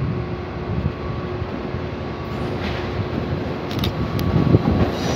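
Stadler FLIRT electric multiple-unit train approaching along the station track: a steady low rumble of wheels on rail with a faint steady hum, and a few light clicks about four seconds in.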